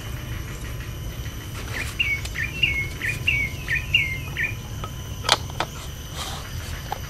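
A bird calling in a quick run of about seven short chirps, each dropping in pitch at the end, over a low steady rumble. Two sharp clicks follow a little after five seconds in.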